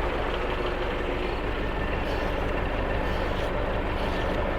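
Farm tractor engine running steadily at idle.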